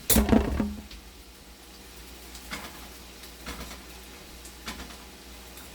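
A short clatter of kitchen utensils in the first second, then a few light taps, as fried breadfruit slices are lifted out of the frying pan onto paper towel.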